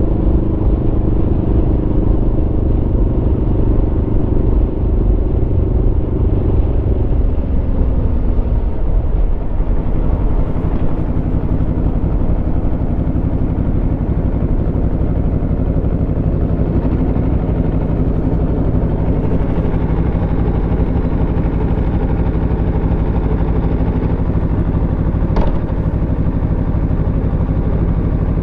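Aprilia Tuono V4 motorcycle's V4 engine running on the road. Its note holds steady, drops about eight seconds in as the bike slows, then stays steady at a lower pitch.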